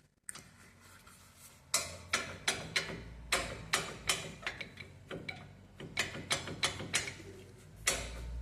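Loose front brake pad knocking in its caliper as it is moved back and forth by hand: a sharp tac-tac about three times a second, starting about two seconds in. The pad has play in the caliper, the cause of the front wheel's tac-tac noise.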